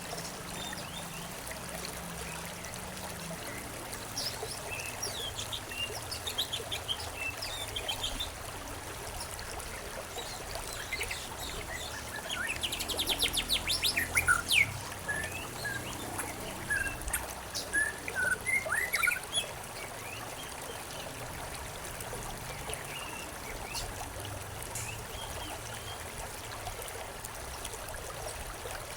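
Songbirds chirping and whistling over a steady trickle of stream water. The bird calls are busiest in the middle, with a fast trill about halfway through.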